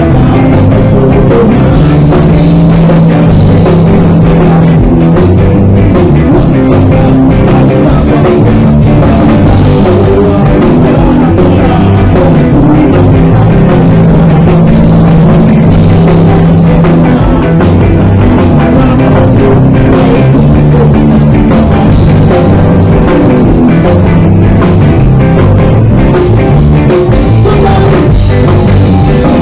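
Live rock band playing loud: drum kit and guitars with heavy bass, in a continuous full-band passage.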